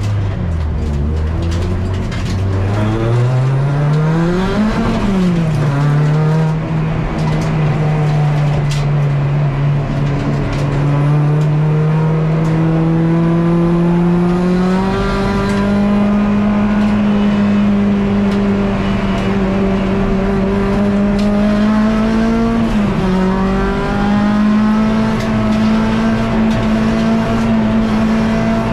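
K24-engined Honda Civic EG race car's four-cylinder engine heard on board under hard acceleration. The revs climb and then drop at an upshift about five seconds in, rise slowly to a high steady pitch, and dip briefly about three-quarters of the way through before holding high again.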